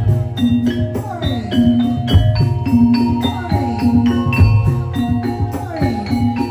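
Jaranan gamelan music for a kuda lumping dance: struck metal mallet instruments ringing over drums in a steady, repeating rhythm, with short falling drum tones.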